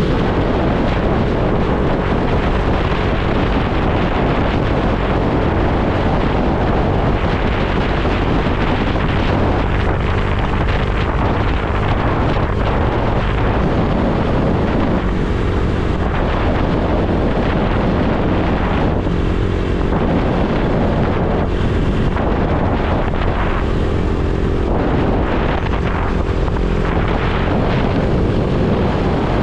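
Motorcycle engine running while riding, heavy wind noise buffeting the microphone, with the engine's pitch shifting now and then.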